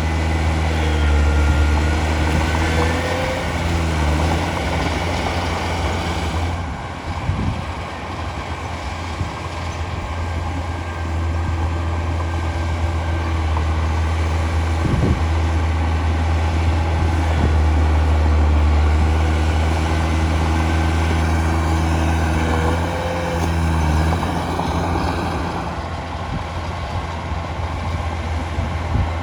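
Heavy diesel earthmoving machinery running under load, the engine note dipping and picking back up a couple of times, with a few sharp knocks in the middle.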